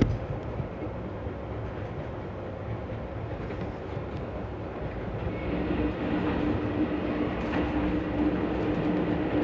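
Amtrak passenger train rolling along the track: a steady rumble, with a sharp click at the very start and a steady tone joining about halfway through as it gets a little louder.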